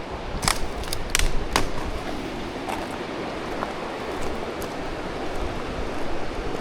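A steady rushing noise, with a few sharp crunches and clicks in the first two seconds, like footsteps on a rocky trail.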